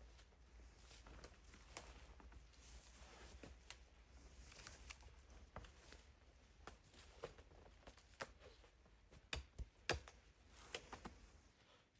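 Faint scattered clicks and soft rustling over a quiet hiss, with a few sharper clicks a little over nine seconds in.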